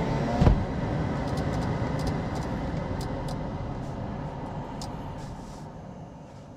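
Toyota Aqua NHP10 hybrid's 1.5-litre four-cylinder engine running, a steady noise with one thump about half a second in, slowly fading toward the end.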